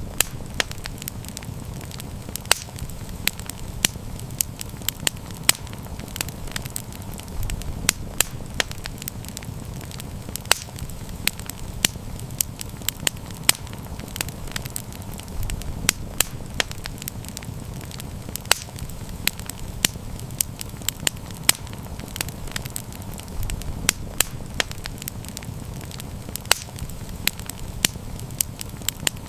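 Wood fire crackling, with frequent sharp pops and snaps over a low steady rush of flames that swells briefly about every eight seconds.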